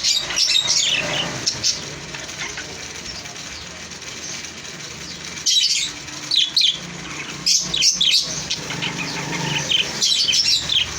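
Small pet parrots chirping in quick, sharp high-pitched calls, coming in clusters a few seconds apart.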